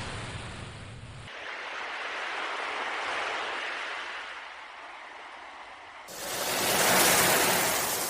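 Sea waves washing in and drawing back, a steady hiss that swells and fades. Near the end a bigger wave surges in and then recedes. The sound changes abruptly twice where recordings are joined.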